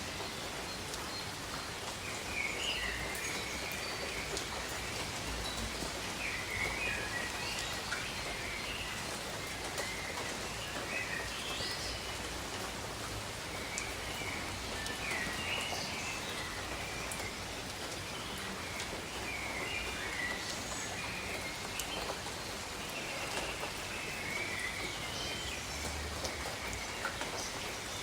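Steady tropical rain falling on jungle foliage, with a bird giving short warbling calls every few seconds.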